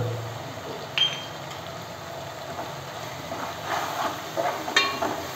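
Onions, green masala paste and freshly added chilli powder and turmeric sizzling in oil in an aluminium pot. A metal spoon clinks against the pot about a second in, then scrapes and knocks against it as the spices are stirred in near the end.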